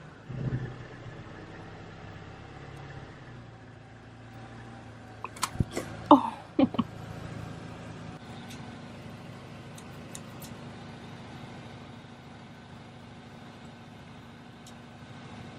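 A car's engine running steadily at low speed while its tyre rolls over and crushes an object. A burst of cracking and squeaking comes about five to seven seconds in.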